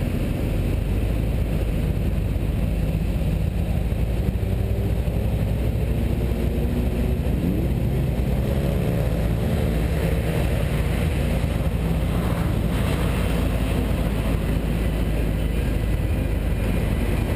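Car engine running under a steady low rumble, rising in pitch about halfway through as it accelerates.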